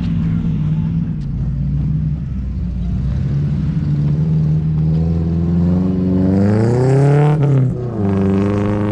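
Engine of a 1987 Toyota pickup breathing through new headers and a 2.5-inch exhaust, running steadily, then revving up with a rising pitch about five seconds in. Near the end the revs fall off sharply and it settles back to a steady note.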